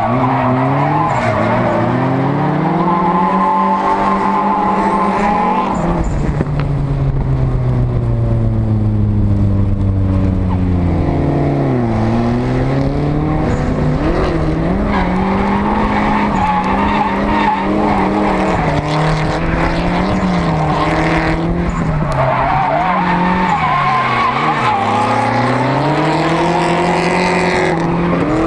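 Turbocharged KA24DET four-cylinder engine of a drift car, heard from inside the cabin. It is held at high revs and rises and falls with the throttle, with a deep dip about twelve seconds in and quick dips and blips through the middle, over the hiss of skidding tyres.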